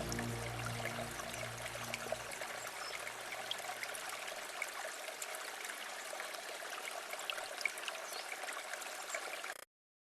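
Quiet river water flowing and trickling steadily, with fine droplet ticks, while the low tones of background music fade away in the first few seconds. The sound cuts off abruptly near the end.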